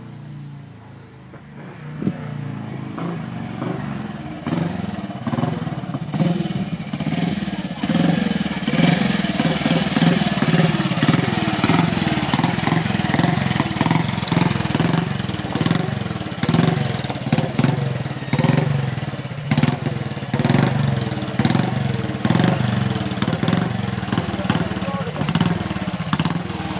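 A 1955 BSA DB32 Gold Star's 350 cc single-cylinder engine, faint at first and growing louder over the first several seconds as the motorcycle comes closer, then running loudly and steadily with a low pulsing beat.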